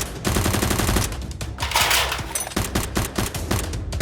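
Rapid automatic gunfire: bursts of shots in quick succession, with a short lull about halfway through.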